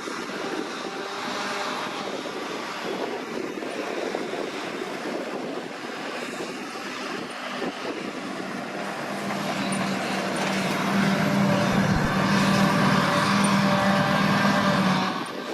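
New Holland T6070 tractor's six-cylinder diesel engine running steadily under load while pulling a CLAAS Liner rotary rake. It grows louder over the last few seconds, then drops off suddenly near the end.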